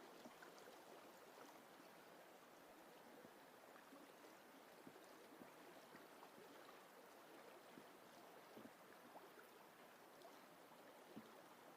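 Faint, steady rush of a shallow mountain river flowing.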